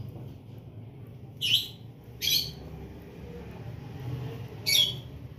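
A small bird chirping three times, each chirp short and high, over a steady low hum.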